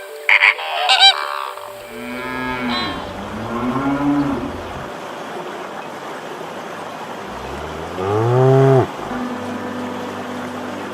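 Cattle mooing: a couple of lower moos a few seconds in, then one loud, long moo near the end that drops in pitch as it finishes. A few short, high-pitched calls come right at the start.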